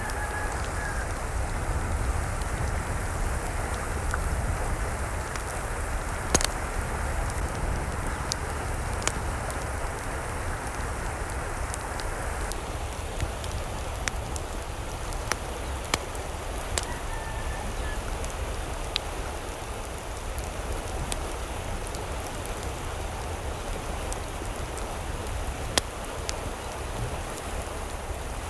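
Steady water noise, like rain or running water, with scattered sharp ticks and drips. A faint short chirp comes near the start and again about halfway through.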